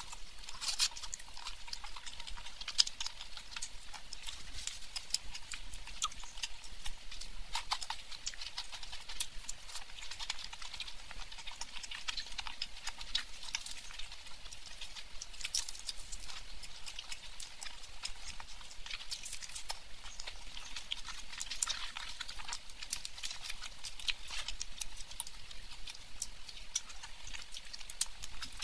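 Close-miked chewing and mouth sounds of a person eating luchi with mutton curry: an irregular, steady run of short smacking clicks.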